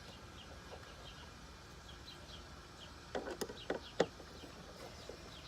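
Faint bird chirps repeating, with a short run of sharp clicks and knocks about three seconds in as a screwdriver drives a screw into the car's air filter housing.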